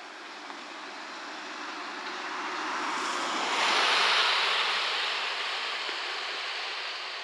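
Rushing rail noise of an approaching JR West 227 series electric train. It swells to a peak about four seconds in, then eases off.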